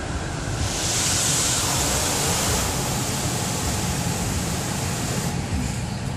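Automatic car wash rinse spray beating on the car, heard from inside the cabin. A loud hiss of water starts about a second in and drops away about a second before the end, over a steady low rumble.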